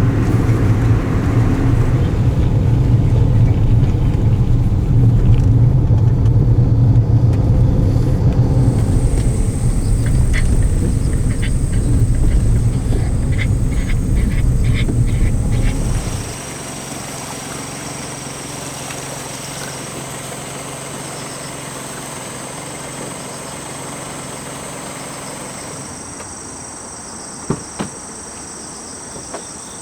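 Car running with a steady low rumble that cuts off abruptly about halfway through, leaving insects chirping in a steady high drone, with a couple of short knocks near the end.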